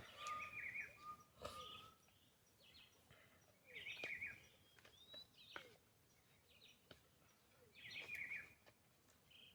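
Forest birds calling: a short chirping phrase repeats about every four seconds, with thin whistles in the first two seconds and a few faint clicks.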